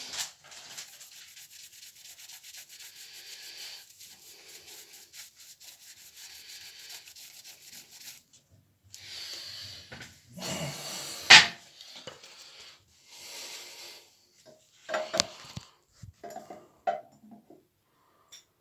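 Close, fine rubbing and scratching for several seconds, then a run of handling knocks with one sharp clack about eleven seconds in.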